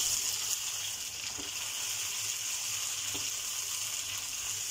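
Sliced tomatoes and onions sizzling steadily in hot oil in a kadhai as they are stirred, with a few faint knocks against the pan.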